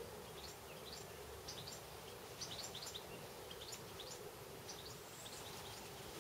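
Small birds chirping in rapid, short notes that fall in pitch, over the steady low rush of a shallow spring-fed stream rippling past, with a faint steady hum.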